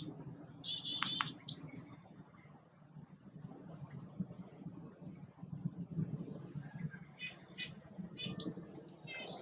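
Small songbirds calling: quick chattering runs of high notes and short sharp chips, a few thin very high single notes, and a cluster of chips near the end, over a faint low rumble.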